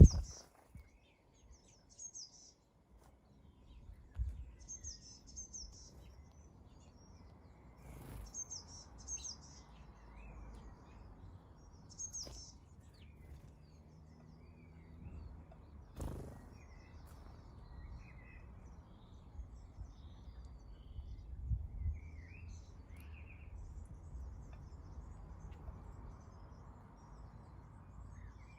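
Small garden birds calling: short clusters of high, thin chirps every two to four seconds, then softer, lower chirps in the second half, over a steady outdoor background with a few faint knocks.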